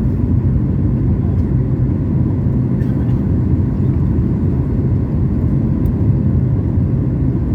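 Cabin noise of a Boeing 737 MAX 8 in flight: a steady low rumble of engines and airflow, with a faint steady hum above it.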